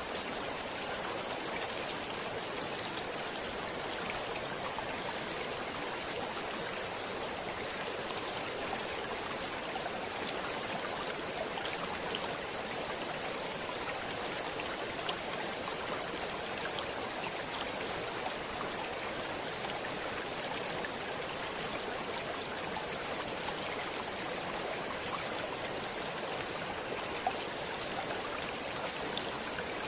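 Stream water flowing and splashing over rocks, a steady rushing babble with small scattered droplet splashes.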